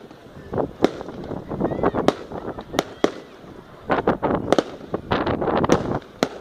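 Fireworks going off: sharp bangs at irregular intervals, with two spells of rapid crackling about four and five seconds in.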